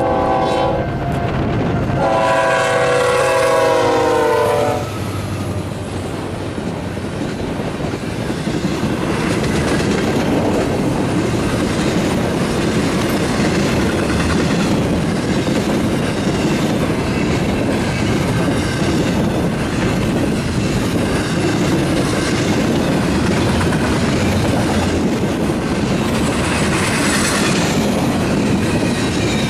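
Freight locomotive horn sounding a short blast and then a longer, louder chord, as a BNSF double-stack container train comes through. The train then rolls past close by, its wheels clattering steadily over the rail joints.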